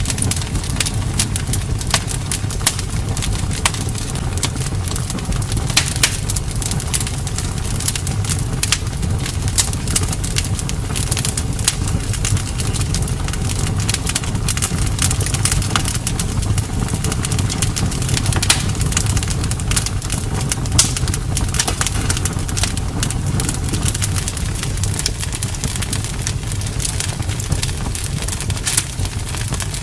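Campfire burning: wood crackling with many sharp, irregular pops over a steady low rumble.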